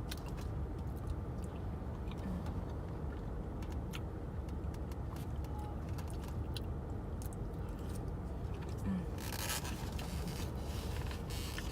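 Steady low rumble inside a parked car, with scattered light clicks and a burst of scraping or rustling about nine seconds in.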